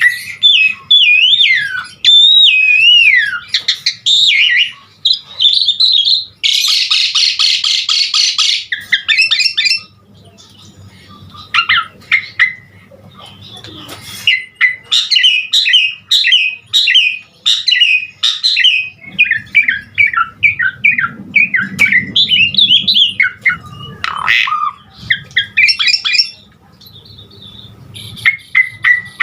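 Jalak suren (Javan pied starling) singing loudly in a rapid, ever-changing string of whistles, chirps and harsh squawks. About six seconds in there is a two-second rasping chatter, and around ten seconds a quieter stretch.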